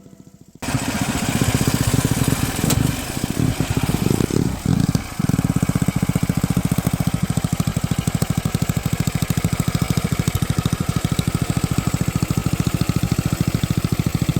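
Tecumseh 10 hp single-cylinder flathead engine running. It starts suddenly about half a second in, its speed wavers for a few seconds, then it settles into a steady run.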